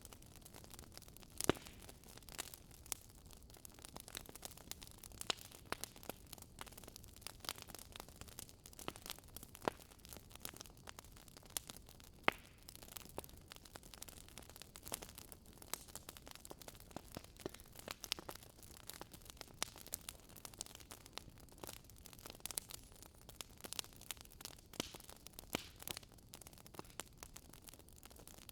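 Campfire burning: wood crackling and popping at irregular moments over a soft low hiss, with the sharpest pops about a second and a half in and again about twelve seconds in.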